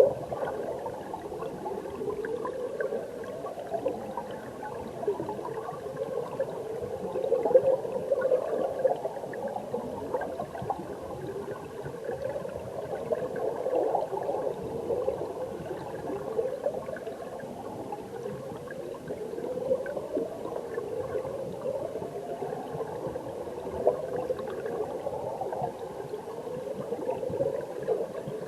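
Flowing stream water heard from underwater: a steady gurgling, bubbling rush with many short rising swishes.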